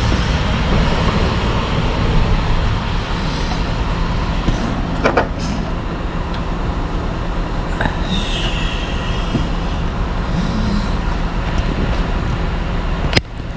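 A motor runs steadily with a low, even drone, and a few sharp clicks of hand work on parts are heard over it.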